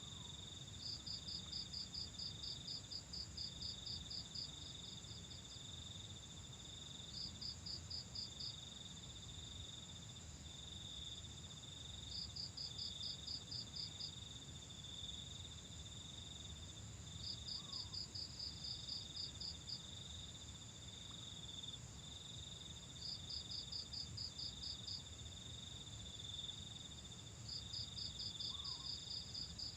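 Night insects, likely crickets: a steady high trill with bursts of rapid chirping laid over it, each burst a second or two long and returning every five seconds or so, above a faint low rumble.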